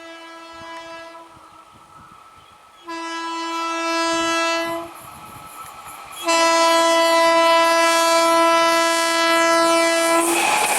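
Indian Railways locomotive horn sounding three times as the train approaches, each blast louder than the last: a faint short blast, a two-second blast, then a long blast of about four seconds. Near the end the rush and rattle of the passing train takes over.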